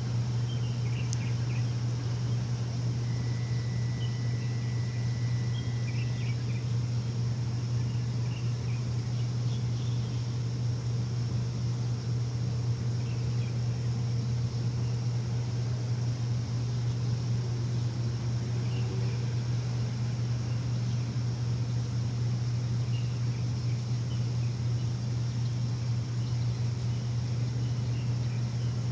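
A machine's steady low hum, unchanging throughout, with faint bird chirps scattered over it and a brief thin steady tone a few seconds in.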